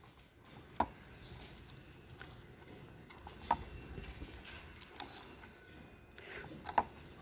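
A few light, sharp taps and water drips over a faint hiss, from a small ultrasonic mist maker being handled in a shallow bowl of water.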